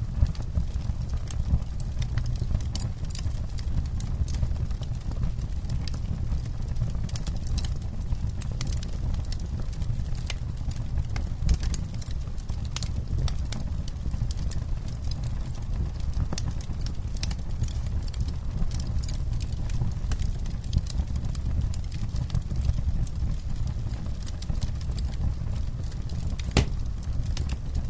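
Wood campfire crackling, with irregular sharp pops and snaps over a steady low rumble. A couple of louder pops come about a third of the way in and near the end.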